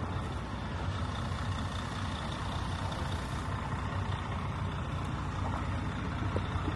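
Large diesel engine idling steadily with a constant low hum.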